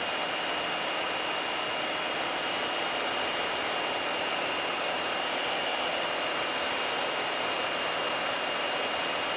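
Steady cabin drone of a Mooney M20K's piston engine and propeller in flight, with a constant high whine over the noise.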